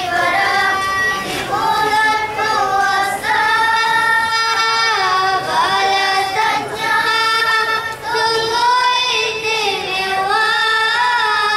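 A boy singing a slow melodic song into a microphone, holding long notes and sliding between pitches.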